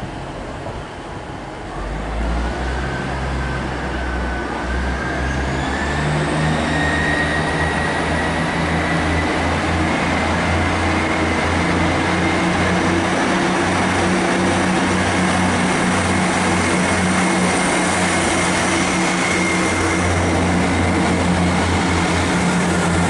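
Class 158 diesel multiple unit's engines powering up to depart, starting about two seconds in. They then run steadily with a deep hum, while a whine climbs over the following several seconds and then holds.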